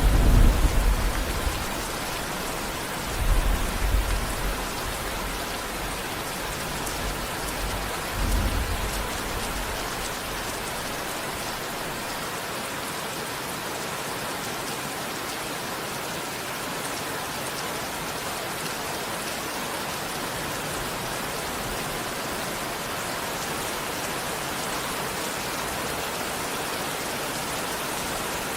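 Steady heavy rain, with rolls of thunder rumbling in the first few seconds: one at the start, another about three seconds in and a weaker one about eight seconds in. After that only the rain goes on.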